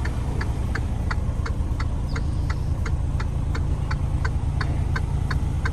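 Truck's indicator flasher ticking at an even pace, about three ticks a second, over the steady low hum of the running engine.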